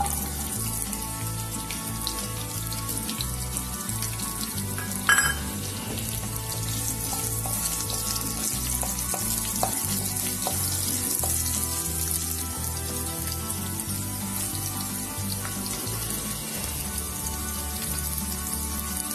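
Chopped red onions with curry leaves and green chillies sizzling in hot oil in a frying pan, with one short sharp knock about five seconds in. Background music with a steady low beat plays alongside.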